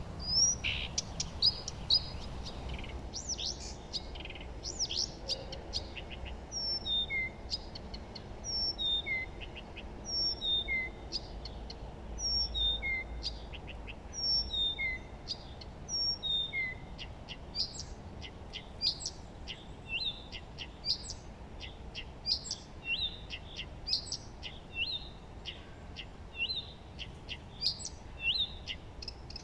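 Songbirds singing and chirping: short high calls throughout, with one bird repeating the same falling call about every second and a half through the middle stretch, over a faint steady background hiss.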